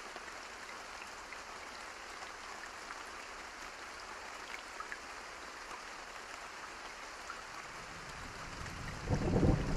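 Steady rain falling, an even hiss with scattered drop ticks. Near the end a low roll of thunder builds and breaks loudly about nine seconds in.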